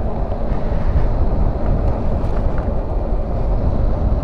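Steady wind rush and low rumble on a motorcycle rider's helmet microphone while riding at speed, with no clear engine note standing out.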